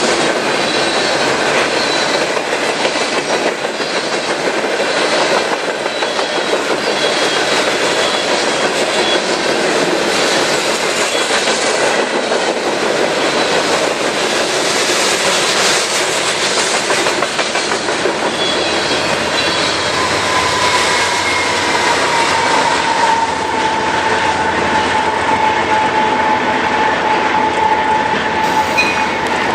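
Railcars of a passing train rolling by close up, wheels clacking over the rail joints in a steady rush. About two-thirds of the way through, a steady wheel squeal sets in and sinks slightly in pitch.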